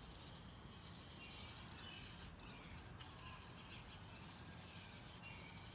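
Near silence: faint outdoor ambience with a few brief, distant bird chirps.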